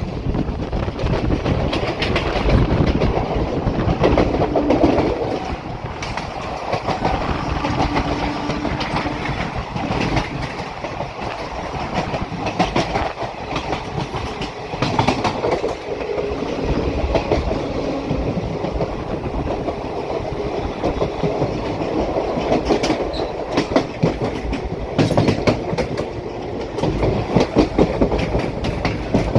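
Train running on the track: a steady rumble with wheels clattering over rail joints, clicks coming close and often.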